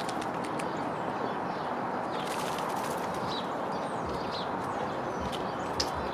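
Small birds giving a few short, high chirps over a steady outdoor background hiss, with a couple of sharp clicks near the end.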